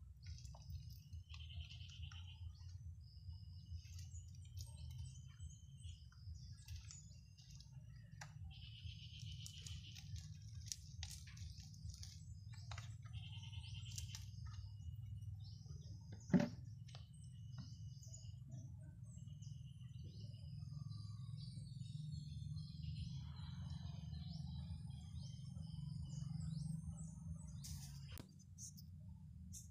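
Small birds chirping and trilling on and off over a steady low rumble, with one sharp knock about halfway through.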